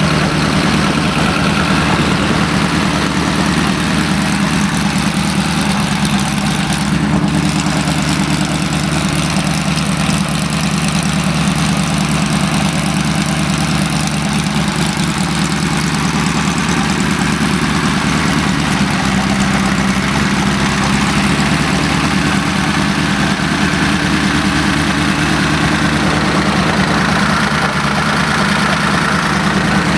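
Car engine idling steadily, a low even hum that holds without revving throughout.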